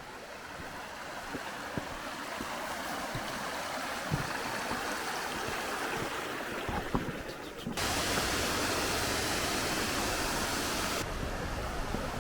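Mountain stream water rushing steadily, growing gradually louder, then jumping abruptly louder and brighter about eight seconds in before easing back a little near the end.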